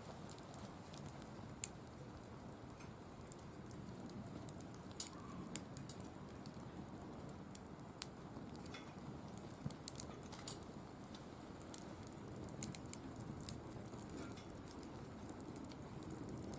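Firewood burning in a mesh-walled fire pit: a steady low rush of flame with scattered sharp crackles and pops.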